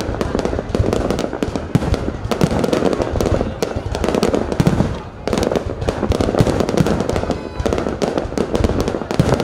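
Fireworks display bursting in rapid succession, a dense, continuous run of sharp bangs and crackles, easing briefly about five seconds in before picking up again.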